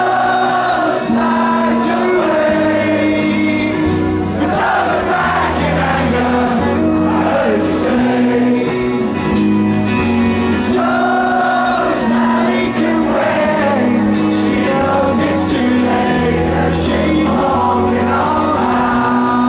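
Loud band music with a sung lead vocal: a steady bass line under long held notes, likely recorded live from the crowd at a concert.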